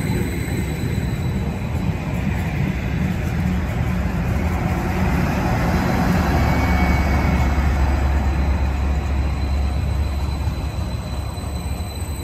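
Greater Anglia Class 755 bi-mode train passing close by on diesel power: steady rumble of wheels on track, with the low drone of the diesel engines in its central power-pack car loudest as that car goes by about halfway through. The sound eases as the train draws away.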